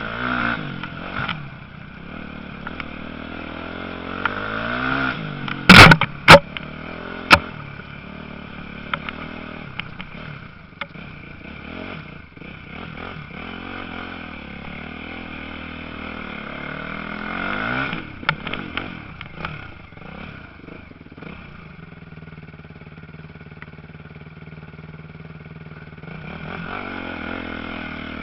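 Motocross bikes revving and passing, their engine pitch rising and falling several times. A few sharp, very loud knocks come about six to seven seconds in.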